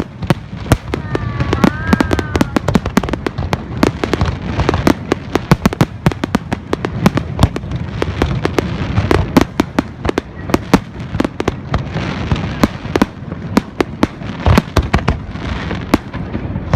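Fireworks display going off without a break: a rapid, continuous barrage of bangs and crackles, many per second.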